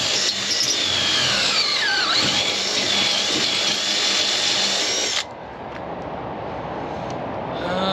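Power drill with a step drill bit boring a bolt hole. Its whine dips in pitch as the bit bites and then recovers, and the drill stops suddenly about five seconds in.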